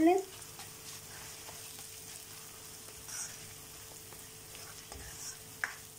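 Chopped onions and ginger-garlic paste sizzling in hot oil in a karahi as they are stirred with a plastic spoon, with a few light scrapes of the spoon against the pan.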